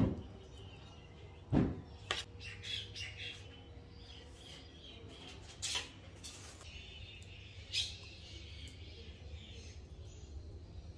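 Birds chirping and squawking, with a few sharp thumps or knocks. The loudest knocks come at the start and about a second and a half in.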